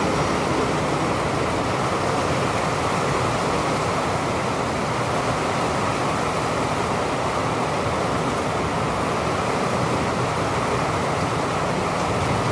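Rain falling steadily: an even, unbroken rushing hiss with no thunder claps.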